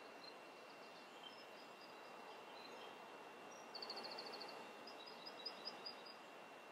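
Faint bird chirps over quiet room hiss: scattered single chirps, a quick trill of about ten notes near the middle, then a row of short notes.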